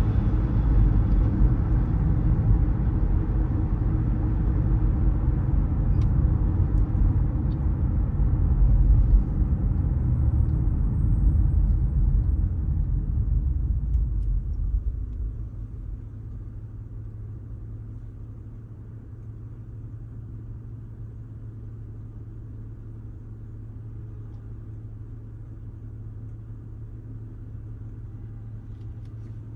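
Car driving with a steady low road and engine rumble that falls away about halfway through as the car slows to a stop, leaving a quieter steady engine hum at idle.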